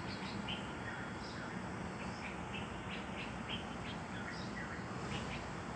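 Several small birds chirping: short high notes, some sliding down in pitch, scattered irregularly over a steady background noise.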